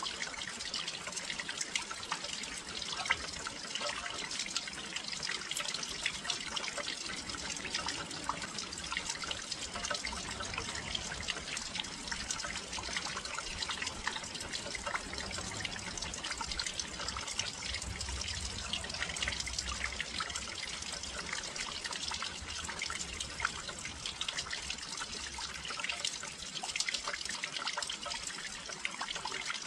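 Steady rain falling, with many fine drops ticking and pattering close by, as on a windowsill.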